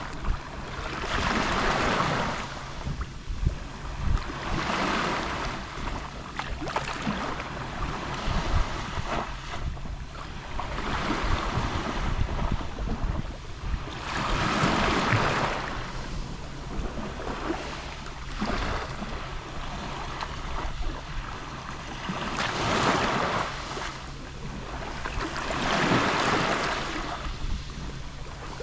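Gentle Mediterranean waves lapping on the shore, each wash swelling and fading every three to four seconds, over a steady low rumble of wind on the microphone.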